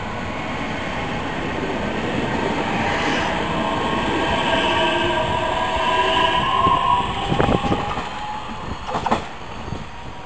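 Electric multiple-unit train moving along the platform, its traction motors whining in several tones that slowly rise in pitch. About two-thirds of the way through, the wheels clack over the rail joints twice as the last cars go by, and then the sound fades.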